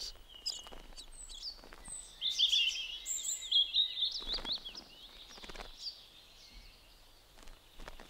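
Small songbirds chirping. A quick, busy run of high chirps comes about two seconds in, then sparser, fainter calls.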